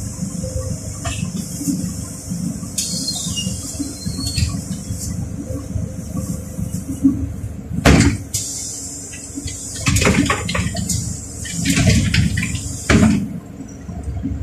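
Inside a LiAZ 4292 city bus: a low engine rumble under a steady hiss, with several sharp knocks and clunks in the second half; the hiss cuts off near the end.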